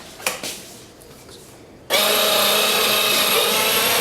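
A small electric motor starts suddenly about two seconds in and runs with a steady whine.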